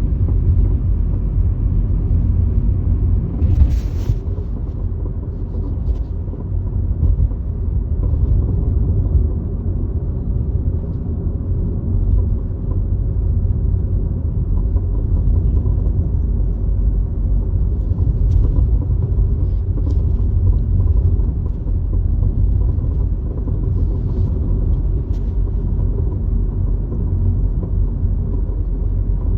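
Honda Accord (CU2) on the move: a steady low rumble of road and running noise, with a brief sharper noise about three and a half seconds in and a few faint clicks later. The owner is chasing an unexplained abnormal noise from the right-front suspension.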